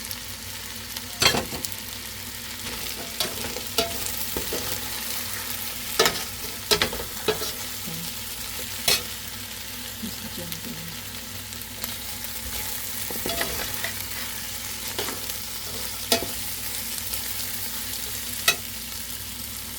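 Ground beef, garlic, onion and freshly added carrots sizzling in oil in a pan while being stirred. A utensil knocks sharply against the pan now and then.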